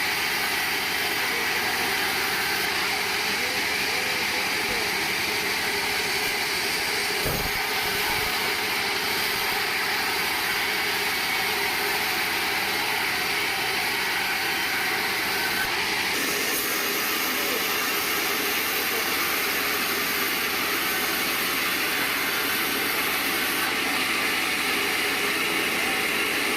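Band sawmill running with a steady, unbroken machine noise and hiss.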